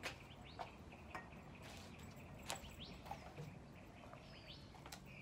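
Faint outdoor ambience: a few short bird chirps and a handful of light clicks over a low steady hum.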